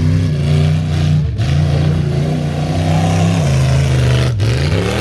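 Jeep engine revving hard under heavy throttle. Its pitch drops sharply twice as the throttle is lifted, about a second in and again near the end, and climbs back each time.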